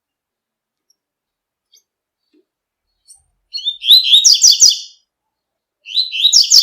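Double-collared seedeater (coleiro) singing its tui-tui song: a short note, then two phrases of quick, repeated high notes of about a second each, a second or so apart, the last one running on past the end.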